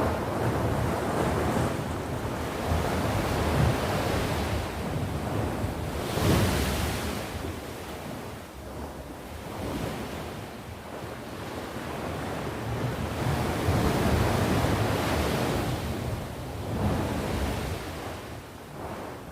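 Sea waves breaking and washing on the shore, the surf swelling and ebbing every few seconds, with one louder, hissier surge about six seconds in.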